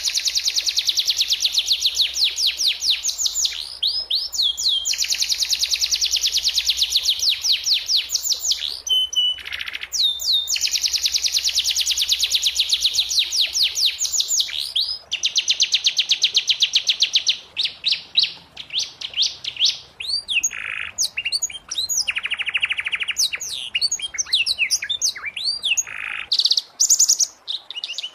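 Canary singing a long song of fast trills and rolls, many evenly repeated high notes a second. After about halfway the song turns choppier, with shorter varied phrases and brief pauses.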